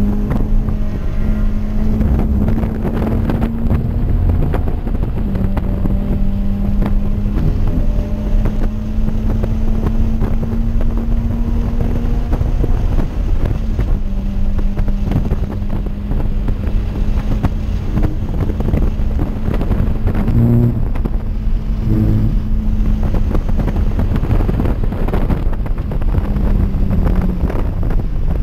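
Toyota 86's flat-four engine running hard under load, heard inside the cabin over wind and road noise. Its steady note dips twice at gear changes, about 5 and 14 seconds in. A couple of short thumps come near 20 and 22 seconds.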